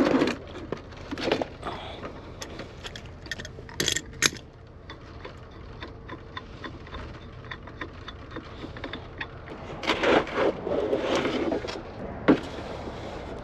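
Scattered metallic clinks, knocks and scrapes of tools and fittings being handled, with louder clusters about a second in, around four seconds, and from about ten to twelve seconds in.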